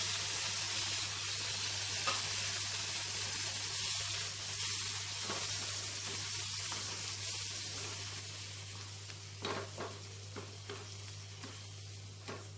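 Tomato puree sizzling in a hot kadai of onion and spice masala as it is stirred. The hiss is loud at first and slowly dies down, with a few taps of the stirring spoon about ten seconds in.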